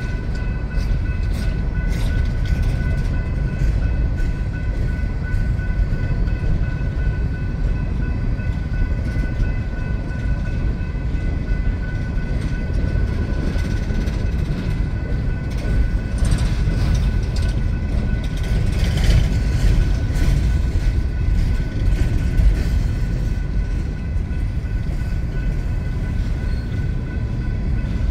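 Empty coal train's cars rolling slowly past: a steady low rumble of wheels on rail, with scattered brief clanks and a faint steady high ringing tone above it.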